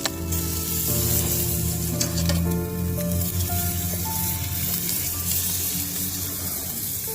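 Chicken sizzling on a hot grill, under background music. There are a few sharp clicks at the start and about two seconds in.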